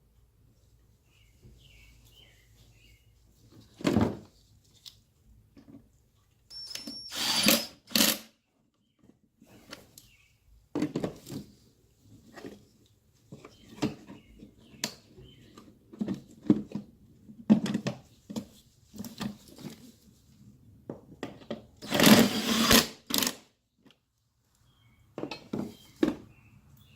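Irregular knocks, clicks and scraping of parts being handled and fitted back into the engine bay, likely the air cleaner box going back in, with the loudest bursts about 4 s, 7 s and 22 s in.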